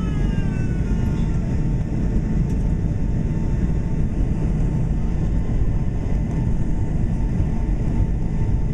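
Boeing 757-300 jet engines running with a steady, loud low rumble. A thin steady whine sits above it, and a few faint tones slide downward in the first second.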